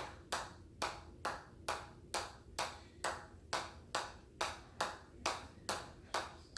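Steady hammer blows on an anvil, about two strikes a second, each giving a short metallic ring.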